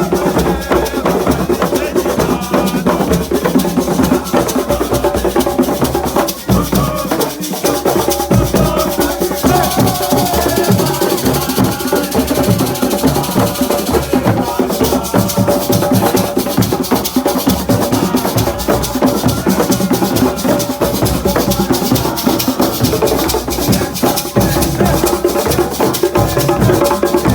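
Assiko music: square frame drums and shakers beating a fast, dense rhythm under voices singing.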